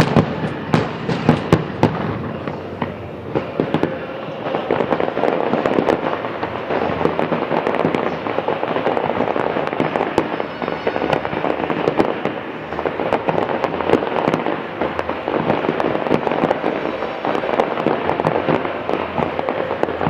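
Fireworks display: a dense, nearly continuous run of bangs and crackle, with several separate louder bangs in the first two seconds.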